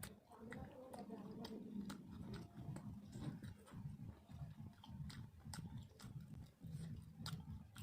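Close-up eating sounds: chewing with irregular wet clicks and lip smacks, several a second.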